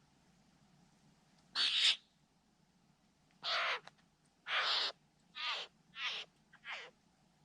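Satin bowerbird giving a series of six harsh, rasping calls. The first is a single call, then five more come in quick succession, each a bit shorter than the last.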